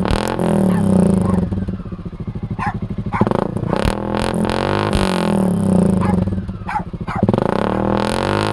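Loud single-cylinder engine of a 2019 Suzuki KingQuad 750 ATV running through an HMF Swamp Series XL aftermarket exhaust, revved and let fall back several times, with a slow pulsing idle in between.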